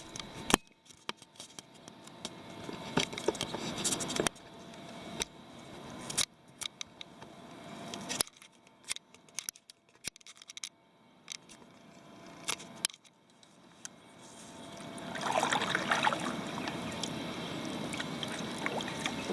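Kayak paddling: water splashing and dripping from the paddle in repeated swells, with a scatter of sharp clicks and knocks.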